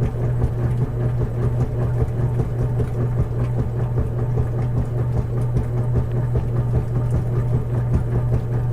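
Washing machine running with a steady, unbroken low hum.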